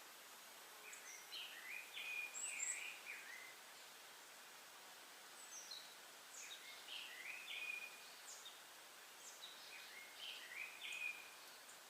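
A songbird singing three short phrases of quick, varied chirping notes, a few seconds apart, over a faint steady hiss of forest ambience.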